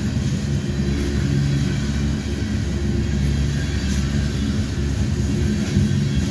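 Freight train's open-top hopper cars rolling past close by: a steady rumble of steel wheels on the rails.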